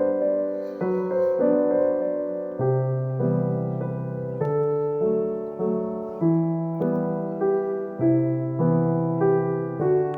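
Background music: a gentle, slow piano piece, notes and chords struck about every half second and left to ring.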